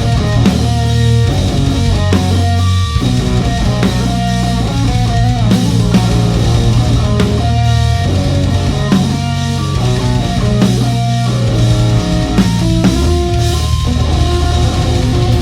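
Live rock band playing loudly: distorted electric guitars and bass over a drum kit, instrumental with no singing.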